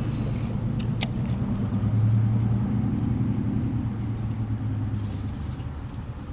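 A motorboat's engine running, a steady low hum that fades toward the end. Two short sharp clicks come about a second in.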